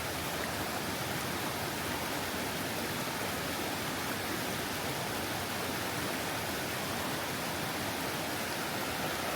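Steady rushing of Elabana Falls, a rainforest waterfall running full of water: an even, unbroken roar of falling water.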